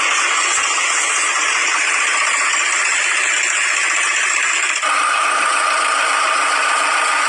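A machine's motor running steadily with a rattle. About five seconds in, the sound shifts and a steady whine comes in.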